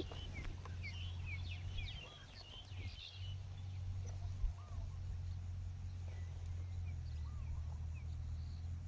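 Wind buffeting the microphone with a steady low rumble, while birds chirp in quick high notes during the first three seconds, followed by a few single short calls.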